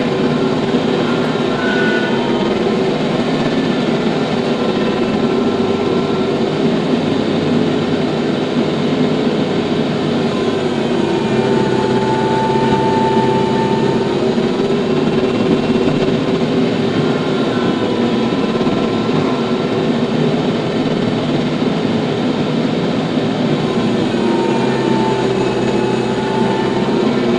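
TYM T574 diesel tractor engine running steadily under a working load. A fainter whine rises and falls in pitch now and then.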